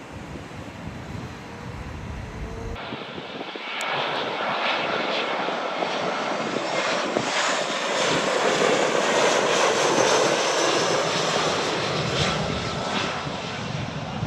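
Jet airliner's engines passing close by: a broad rushing engine noise that swells from about four seconds in, is loudest a little past the middle, then begins to fade.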